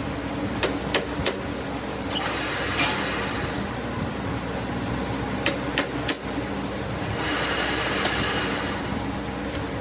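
A workshop machine motor hums steadily. Over it come sharp metallic taps, three in the first second and a half and three more around the middle, and two stretches of hissing, scraping noise.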